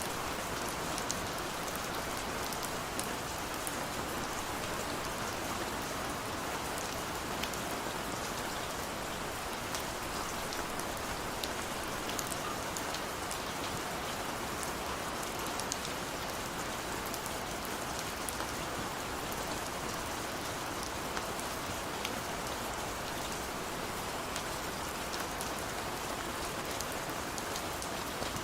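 Steady rain falling, with many small, sharp drop ticks scattered through an even hiss.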